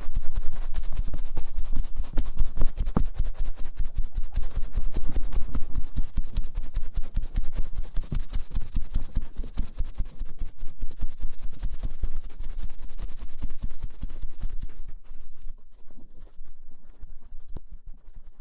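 Cotton swabs rubbing and scratching rapidly on the outer ears (pinnae) of an ASMR microphone, heard as close, dense rustling strokes on both sides. The strokes thin out and grow quieter near the end.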